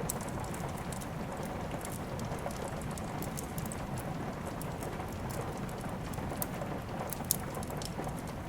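Steady rain with a wood fire crackling: an even hiss scattered with sharp pops and snaps, one louder pop about seven seconds in.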